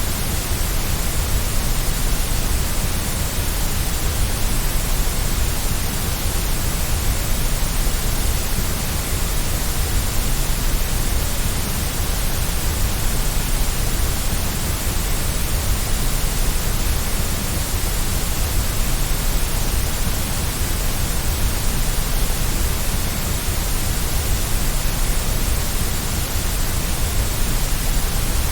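Steady white noise for sleep: an even, unchanging hiss with a deep rumble beneath it.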